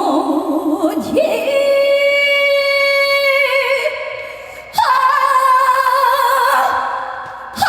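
A woman singing a trot song live, holding long notes with vibrato: one that fades out near four seconds, then a louder, higher note from about five seconds in.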